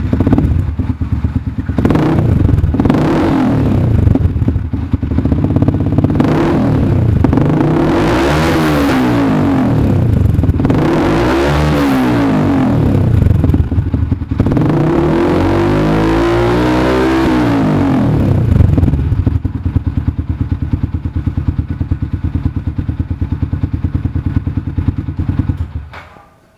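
Yamaha Jupiter MX-King 150cc single-cylinder four-stroke engine breathing through an R9 Misano aftermarket exhaust, with a deep bass tone. It idles and is revved up and back down several times, in longer revs toward the middle. It then settles back to a steady idle and stops about a second before the end.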